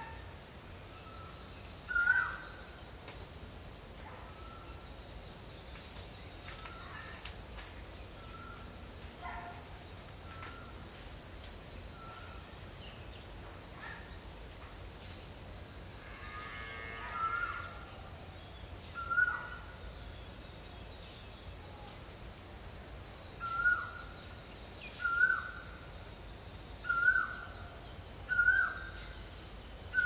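A bird calling in short, hooked notes, scattered at first and then a regular series of louder calls about every second and a half near the end, over a steady high insect buzz.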